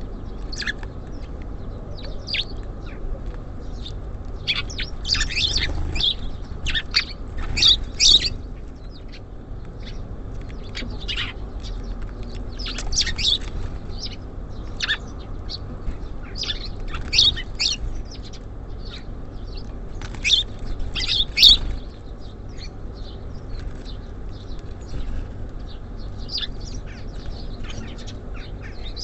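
Small songbirds at a feeder chirping and calling in short bursts, busiest in a few clusters, over a steady low background rumble.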